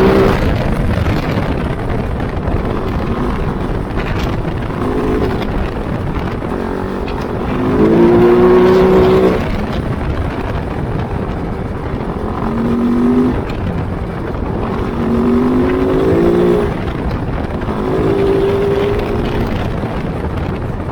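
Kove 450 Rally's single-cylinder engine running under way off-road, the throttle opened in several bursts where the revs climb and the engine gets louder, easing back in between.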